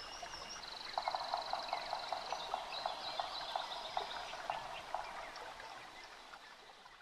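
Outdoor animal calls: a rapid high trill and a lower call repeated about four times a second, fading out near the end.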